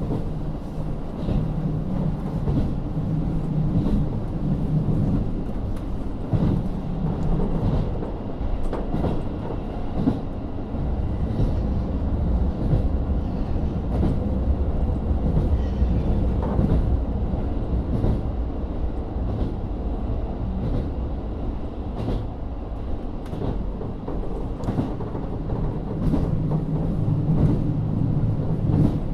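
KiHa 40 diesel railcar with its Niigata N-DMF13HZB diesel engine running under way, heard from inside the car, with rumble and occasional clicks from the wheels on the rails. The engine note is strong at first, drops back for much of the middle under a deeper rumble, and comes back strongly near the end.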